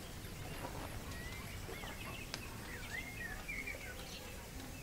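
Faint bird calls: a string of short wavering chirps and whistles about a second in, over steady low background noise.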